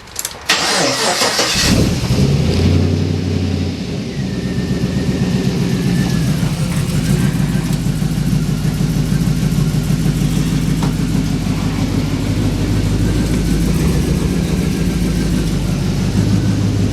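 HSV VE Clubsport R8's V8 engine starting: a short crank, it catches about a second and a half in and flares up, then settles into a steady idle.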